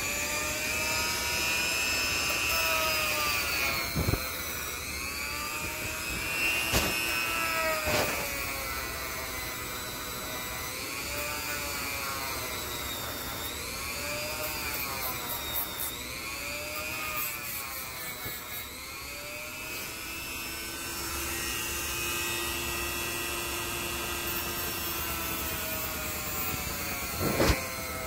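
A small power tool's motor whirring as it shapes a wooden knife handle, its pitch dipping and recovering again and again as it is pressed into the wood. A few sharp knocks come through, one near the end.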